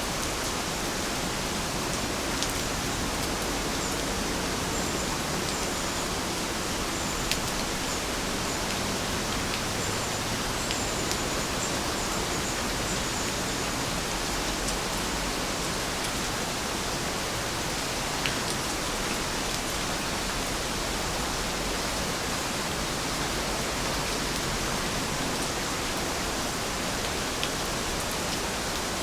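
Heavy rain falling steadily, an even hiss with scattered sharper taps of individual drops.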